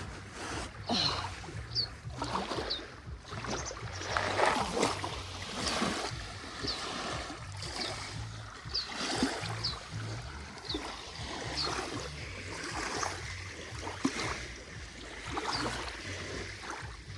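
Water sloshing and lapping in uneven swells, over a low choppy rumble, with short high bird chirps repeating every second or so.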